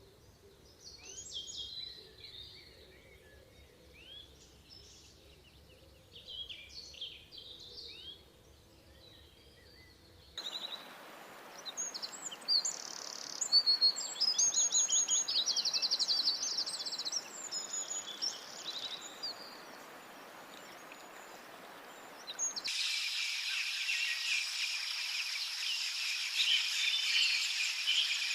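Forest ambience of wild birds chirping and whistling. About ten seconds in it cuts abruptly to a steady hiss under faster, louder bird trills, and about eight seconds before the end to a dense, steady high-pitched hiss.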